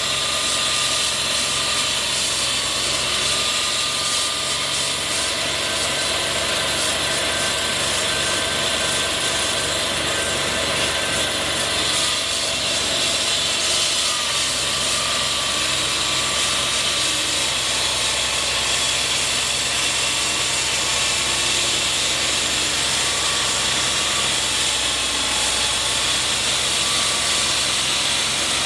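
Steady mechanical noise of running machinery, with a low hum and faint short tones coming and going.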